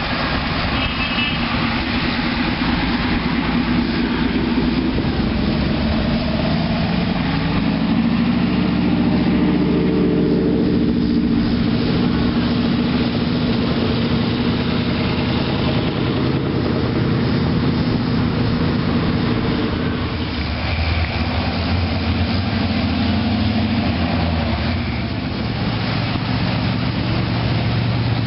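Motor vehicle engines running at low speed, idling steadily, with the pitch shifting up and down a few times.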